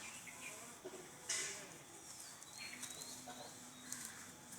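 Faint small-bird chirps, with a short rustling burst about a second in and a low steady hum later on.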